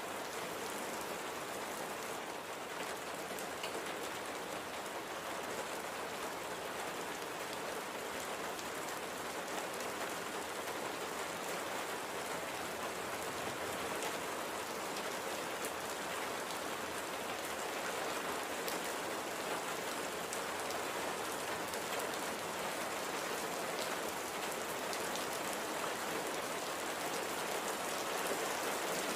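Steady light rain falling on a surface, an even hiss with scattered drop ticks.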